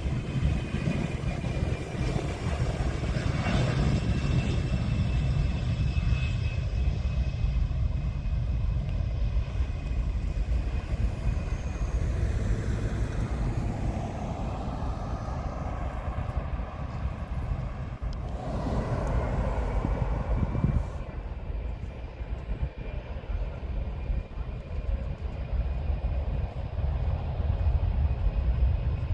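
Large military aircraft engines running, a steady high whine over a low rumble, swelling louder a few times.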